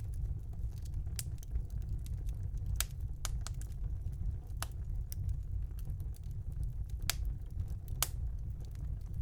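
Wood fire burning in a fireplace: a steady low rumble of the flames with irregular crackles and about half a dozen sharp pops.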